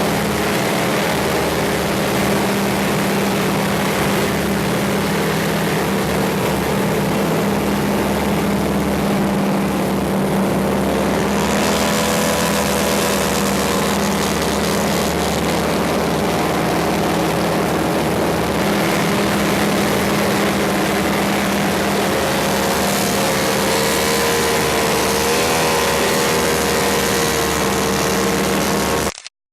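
Propeller airplane engine running steadily, its drone shifting slightly in pitch partway through, then cutting off suddenly near the end.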